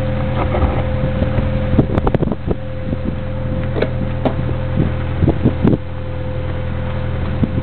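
A Plymouth Reliant's 2.2-litre four-cylinder engine idling steadily. A few short clicks and knocks come about two seconds in and again around five seconds in.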